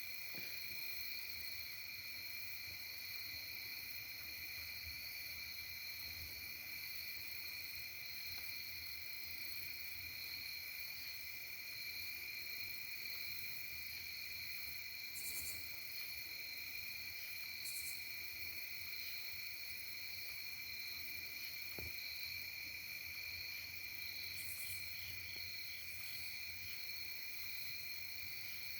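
Continuous insect chorus: a steady high-pitched trill, with a few short, higher buzzes in the second half.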